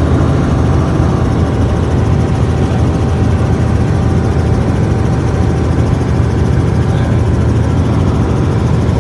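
Helicopter running with a steady low rumble.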